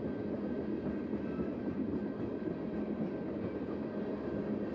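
Freight train tank cars rolling past over a road grade crossing, their steel wheels on the rails making a steady rumble.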